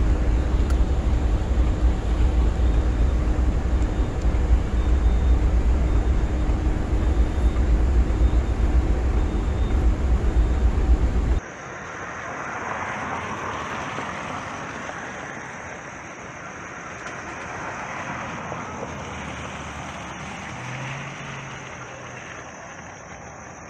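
Diesel locomotive of a passenger train passing close by: a loud, steady low rumble with an engine drone. About 11 seconds in it cuts to the train heard from further off, a much quieter even rolling noise as it runs on along the track.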